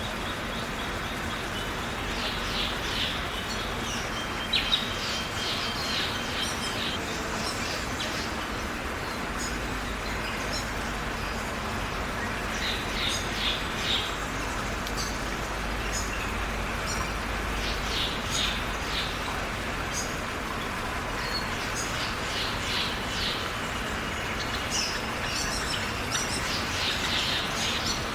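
Steady rain hiss with birds chirping in short clusters several times over it, and two sharp ticks about four and a half seconds in.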